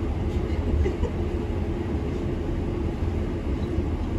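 Steady low rumble of a train, heard from inside a railway driving cab.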